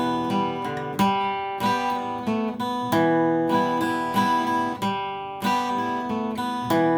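Acoustic guitar strumming a song's intro in the key of G, with chord changes every second or two.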